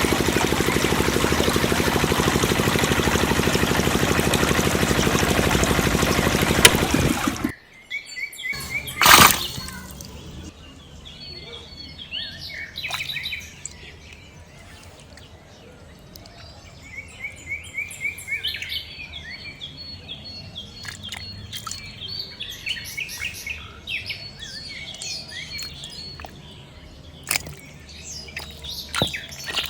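Small engine running the mini water pump with a steady drone, cutting off abruptly about seven and a half seconds in. A brief loud burst follows about nine seconds in, then birds chirping repeatedly.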